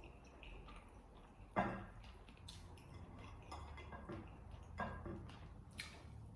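Quiet eating sounds with chopsticks: light scattered clicks and taps, with two sharper knocks, one about one and a half seconds in and another near five seconds.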